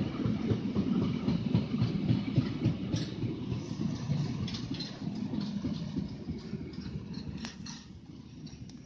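A passenger train rolling past, a low rumble with sharp clicks of wheels over rail joints starting about three seconds in, fading gradually as it moves away.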